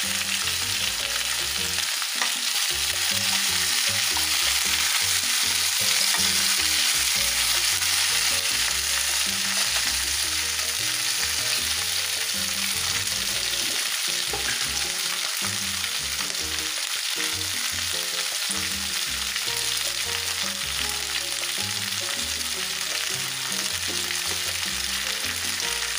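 Raw mango slices frying in oil in a black nonstick wok, a steady sizzle as they are stirred.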